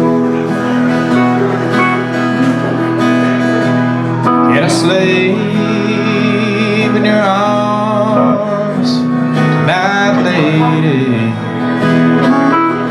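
Country band playing an instrumental introduction, led by a strummed acoustic guitar over sustained notes from the other instruments, with a few rising sliding notes.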